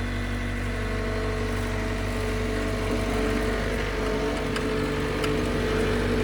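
John Deere 325G compact track loader's diesel engine running steadily, its pitch shifting a little midway, with two faint clicks about four and five seconds in.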